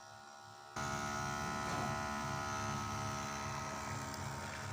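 Small electric motor of a homemade matchbox toy tractor running with a steady buzzing whine. It jumps suddenly louder a little under a second in.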